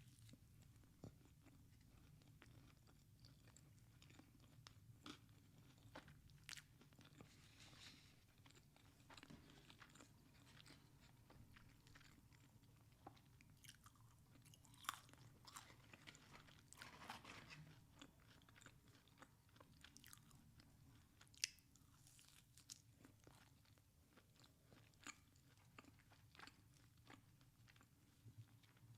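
A person biting and chewing food close to the microphone: faint, irregular crunches and clicks, one sharper crunch about two-thirds of the way through, over a steady low hum.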